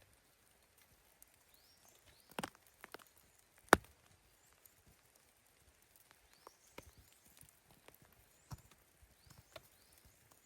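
Scattered light clicks and knocks, with a small cluster about two and a half seconds in and one sharp, loud crack a little under four seconds in.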